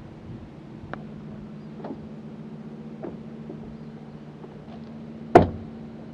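Van door panel being handled and fitted: a few light clicks and one sharp knock a little after five seconds in, over a steady low hum.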